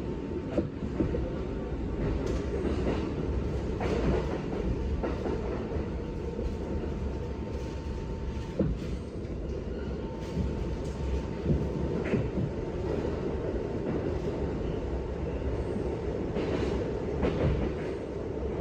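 New York City subway train running along the track: a steady rumble with scattered clacks of the wheels over the rails, and a faint steady whine for most of the time.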